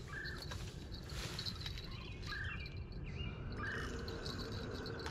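Birds calling in the open: one short call repeated three times over a few seconds, with fainter higher chirps, over a steady low rumble of background noise.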